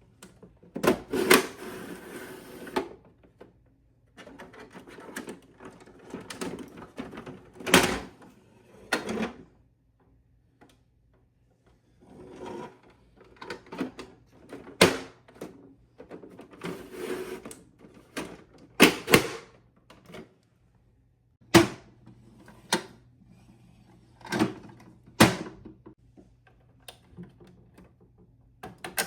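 Plastic parts of a Bruder toy side-loading garbage truck being worked by hand: a run of irregular sharp clicks and knocks, with rattling and scraping between them.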